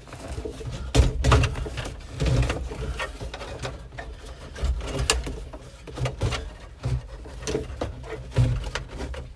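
Irregular knocks, bumps and rustling of flexible heater/AC vent duct hose being pushed and worked into place behind a truck's dashboard.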